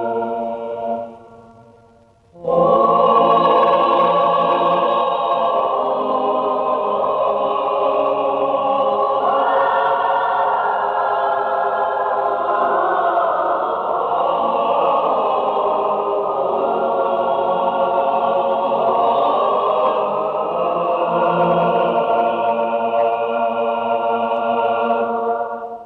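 Film score: a choir singing long held chords. After a brief fade, the chord enters fully about two and a half seconds in and is sustained until it fades at the end.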